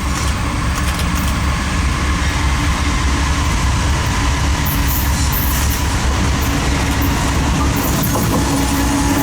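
Diesel-hauled freight train rolling by, a steady low rumble with a steady hum.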